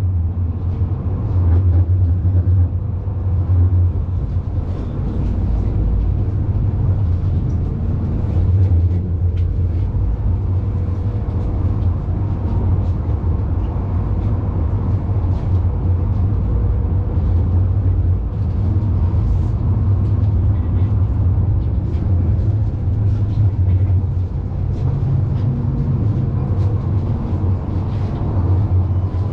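Steady low rumble of a city tram running along its rails, heard from inside the passenger car.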